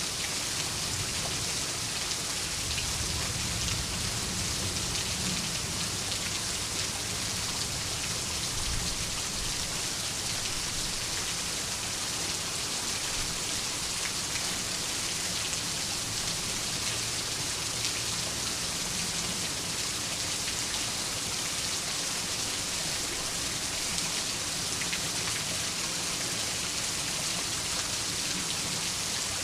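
Steady rain falling, an even hiss. A low rumble sits under it and is strongest in roughly the first ten seconds.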